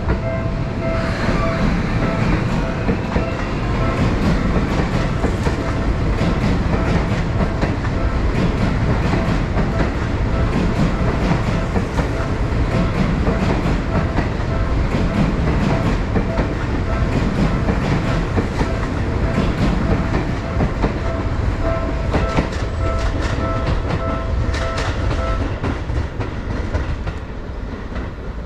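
Seibu Railway electric train pulling out of the station, its wheels clicking over rail joints over a steady running rumble, with a rising motor whine as it gathers speed in the first seconds. A steady pulsing electronic tone sounds over the first few seconds and again through the later part.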